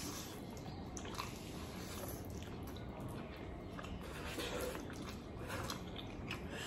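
Faint wet chewing and mouth sounds of someone eating noodles, with small scattered clicks and squishes.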